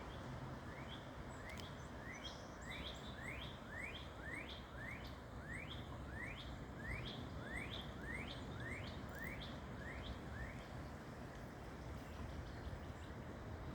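A bird calling a long series of rising chirps, about two a second, over a steady background hiss; the calls stop about ten seconds in.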